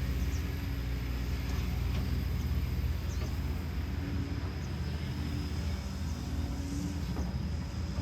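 Kobelco SK210LC excavator's Hino J05E-TG four-cylinder turbo diesel running at a steady speed: a low, even drone with a faint high whine over it.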